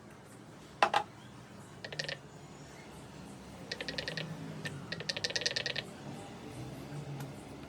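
A sharp knock, then three runs of rapid, evenly spaced mechanical clicking, about ten clicks a second, like a ratchet.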